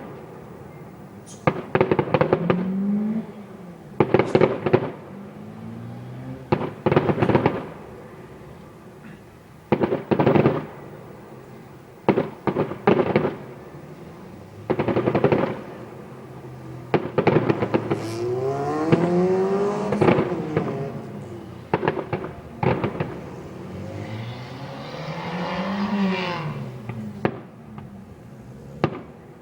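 Fireworks display: repeated bangs and rapid crackling bursts in clusters every couple of seconds, some big exploding shells among them.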